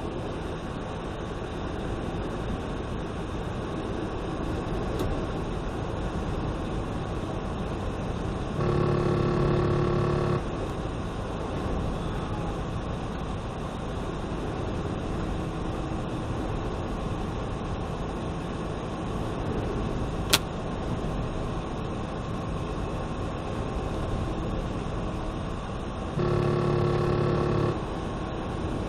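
Car driving on a highway in a thunderstorm, heard from inside the cabin: steady road and rain noise. Two held, steady pitched tones of about a second and a half each, one about nine seconds in and one near the end, stand out as the loudest sounds. A single sharp click comes about twenty seconds in.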